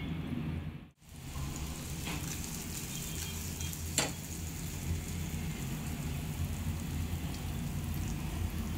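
Pieces of steamed amaranth and gram-flour cake sizzling steadily as they shallow-fry in a little hot oil in a nonstick pan. The sizzle breaks off briefly about a second in, and there is a single sharp click at about four seconds.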